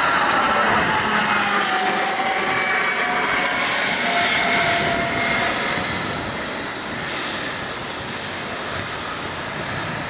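Gulfstream G650 business jet's twin Rolls-Royce BR725 turbofans at takeoff power going past. The engine whine falls in pitch as the jet passes, and the noise fades from about six seconds in.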